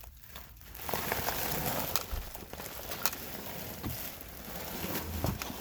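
A person crawling over a bare dirt floor: scraping, rustling and scattered small crackles and knocks of movement.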